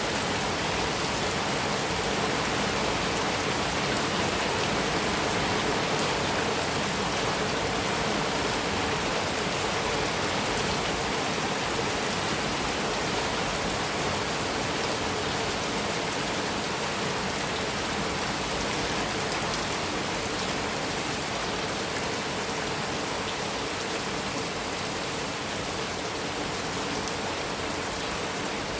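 Heavy rain falling steadily on a metal roof, an even hiss with scattered drop ticks.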